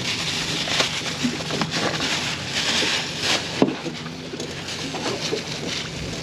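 Wind and water noise on a small open boat, rising and falling, over a low steady hum, with a few sharp knocks.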